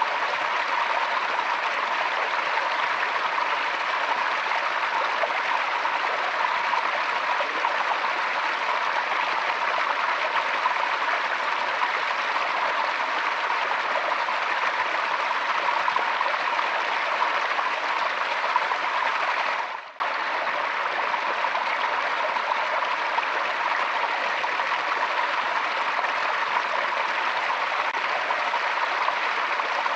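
Forest stream flowing steadily over rocks, an even rush of water. About two-thirds of the way through, the sound dips briefly and cuts straight back in, like an edit in the recording.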